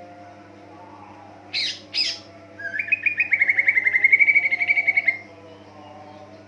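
Cucak ijo (greater green leafbird) calling: two short, harsh notes about a second and a half in, then a fast trill of rapid repeated notes lasting about two and a half seconds.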